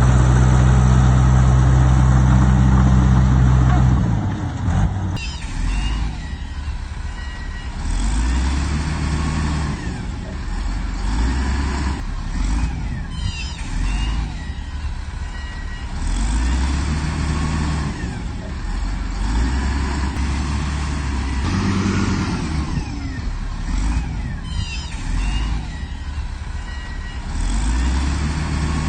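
Heavy diesel earthmoving machine at work. The engine holds a steady loud note, changes about four seconds in, and then swells and eases every few seconds as it takes and sheds load, with occasional high squeaks.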